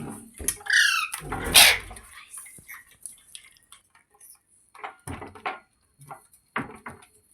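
Green parrot giving a short falling call and then a loud harsh screech, followed by scattered knocks and rattles.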